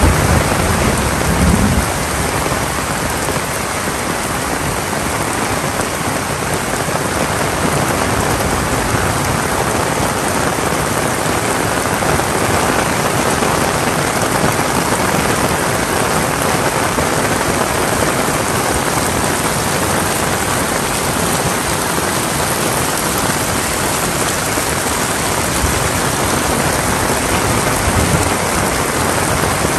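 Heavy rain falling steadily as a dense, even hiss. A low rumble dies away in the first couple of seconds.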